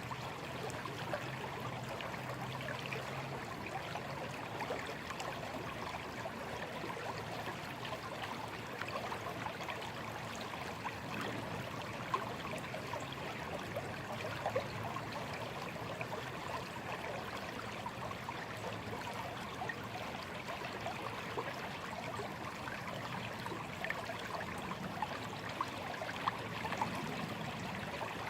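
Small, slow stream trickling and babbling steadily over stones, a continuous even wash of water with many small splashes and gurgles.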